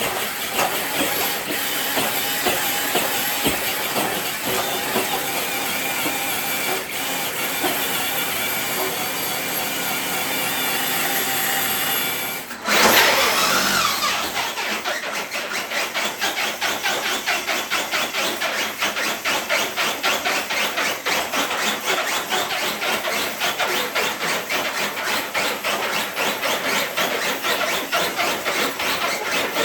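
RC truck's electric drivetrain running under load while dragging a weighted pulling sled, with a steady hiss of tires and sled on the ground. About halfway it drops out briefly, then comes back with a sudden louder burst and settles into a rapid, even pulsing.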